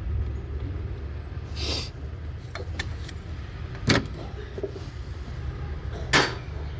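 Workshop noise during a car gearbox removal: three sharp knocks and clatters of tools and metal parts, the loudest about four seconds in, over a steady low hum.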